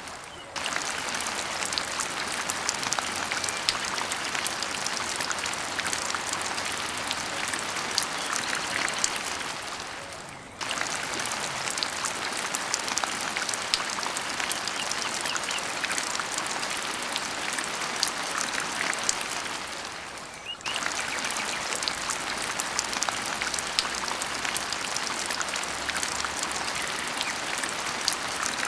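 Rain falling steadily: an even hiss dense with small sharp ticks of drops. It fades out and cuts back in suddenly twice, about ten seconds apart.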